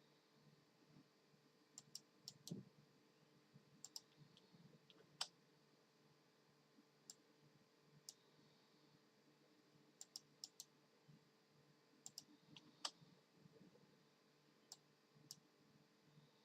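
Faint, irregular clicking: about seventeen short clicks, some single and some in quick runs of two or three, over a low steady hum.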